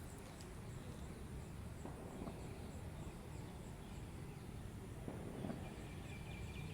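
Outdoor ambience: a steady low rumble, like wind on the microphone, with a faint, regular high ticking, and a thin chirping of small birds or insects coming in about six seconds in.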